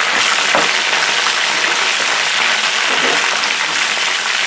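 Sliced onions, green chillies, garlic and curry leaves sizzling steadily in hot oil in a frying pan, stirred with a slotted spoon that scrapes the pan now and then.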